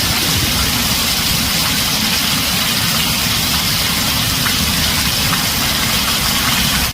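Heavy rain drumming steadily on a tin roof.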